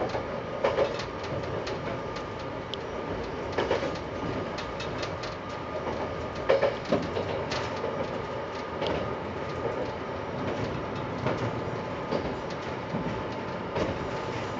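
Tsugaru Railway diesel railcar running along the line. There is a steady running noise with a faint whine, and the wheels clack over the rail joints at uneven intervals every second or few seconds.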